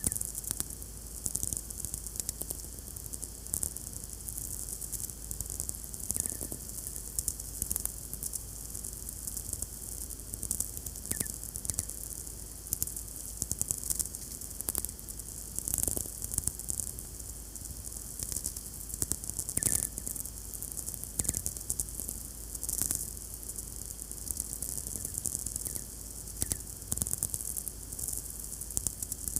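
VLF radio receiver picking up the Earth's magnetic field: a steady hiss filled with irregular crackling clicks (sferics), each one from a distant lightning bolt. A few of the clicks end in a short, high ping.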